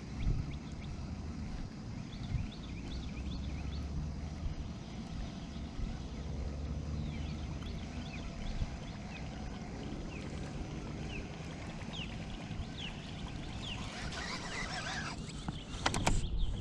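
Birds chirping over a steady low rumble, with a brief rush of noise and a few sharp knocks near the end.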